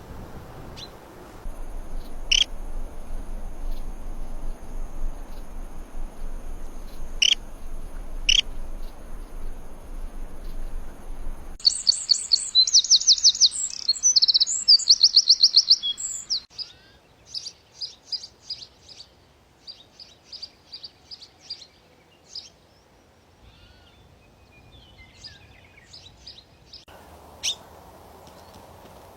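Small birds chirping: a few sharp single chirps over background hiss, then a loud, fast run of chirps about twelve seconds in, followed by scattered softer twittering trills. The background changes abruptly twice, as if separate recordings were joined.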